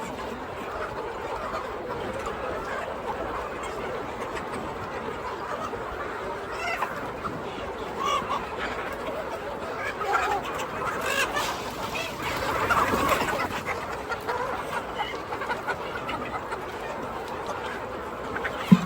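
Chickens clucking, with scattered short calls over a steady background hiss, busiest in the middle.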